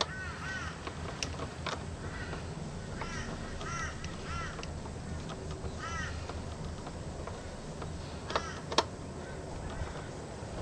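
Repeated short, harsh bird calls, crow-like caws, with a few sharp clicks and knocks in between.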